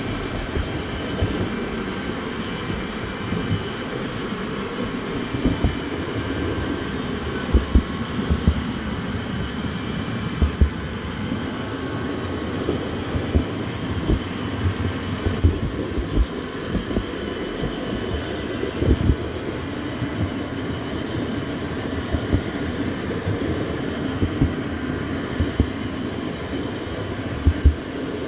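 Train in motion: a steady low rumble with irregular low knocks every second or two.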